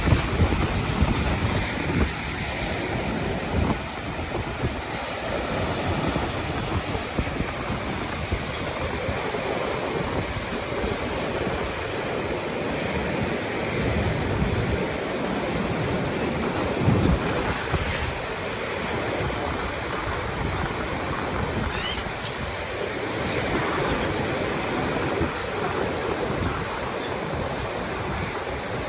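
Storm surf breaking on a beach in a continuous wash of waves, with strong wind gusting on the microphone as a low rumble.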